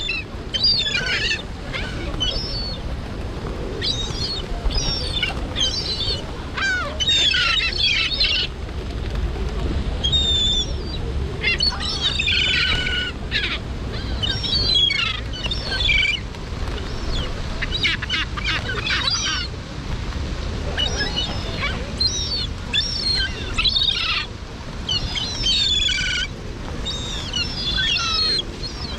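Seagulls calling in many short, overlapping squeals that come in clusters every second or two, over a steady low rumble.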